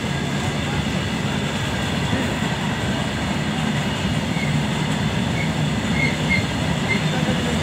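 Goods train of tank wagons passing close by at speed: a steady rolling noise of steel wheels on the rails.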